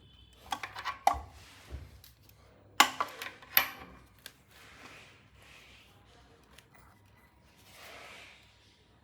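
Small metal clinks and sharp knocks of hand tools and parts being handled, in two clusters: one about half a second to a second in, the other about three seconds in, with soft rustling between.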